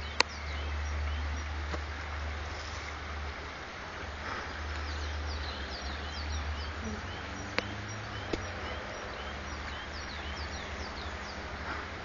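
Small birds chirping over and over in short, high, falling notes, above a steady low rumble. Three sharp clicks cut through: a loud one just after the start and two more about two-thirds of the way through.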